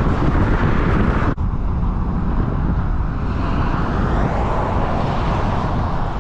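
Pickup truck driving: steady road and engine noise, broken by an abrupt cut about a second in, after which a similar steady drone continues.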